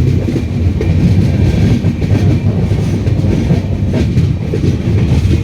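Steady loud rumble of a moving train heard from on board, with wheels clacking over the rail joints.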